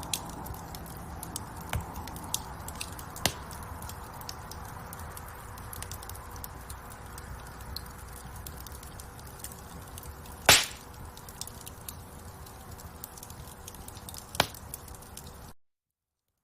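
Wood fire burning in a fireplace: a steady hiss of flames with constant small crackles. There are sharp loud pops about ten seconds in and again near the end. The sound cuts off suddenly shortly before the end.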